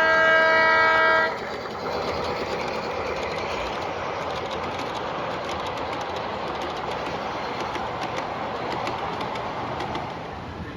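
A multi-note train horn sounds a chord and cuts off suddenly about a second in. Then a train runs with a steady rolling noise and faint rapid clicking of wheels over rail joints.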